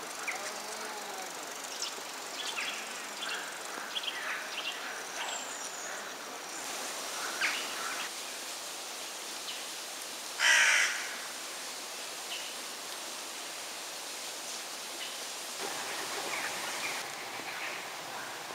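Outdoor ambience with birds calling: scattered short chirps and calls over a steady hiss. About ten seconds in comes one loud, harsh call lasting about half a second.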